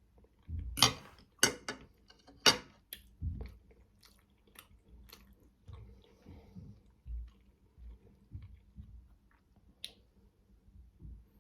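Close-miked chewing of manty, steamed meat dumplings. There are three sharp, loud mouth sounds in the first few seconds, then quieter, irregular chewing.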